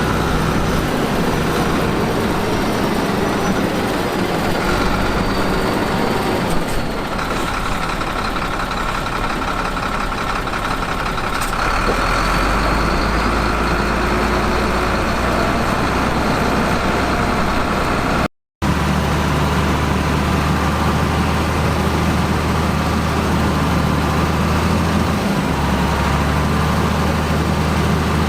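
Diesel engines of heavy construction machinery running steadily under work, with a single knock about a quarter of the way in. The sound breaks off for a moment about two-thirds through and resumes with a different, deeper engine note.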